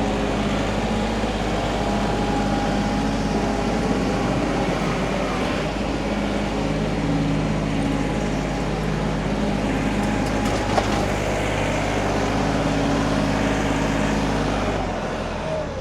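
Kioti NS6010 compact tractor's diesel engine running steadily at working revs, its pitch shifting slightly as the load changes.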